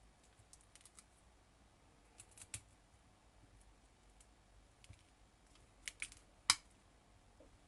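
Scattered small clicks and snips of scissors cutting through beaded trim and of beads being handled, the sharpest click near the end.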